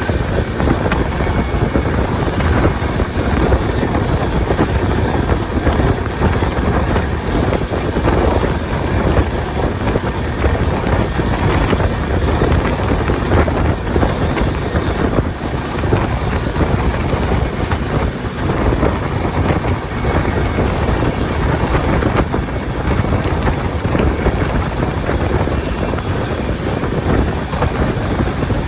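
Express train running at speed: a steady, loud rumble of wheels on rails, with wind buffeting the microphone.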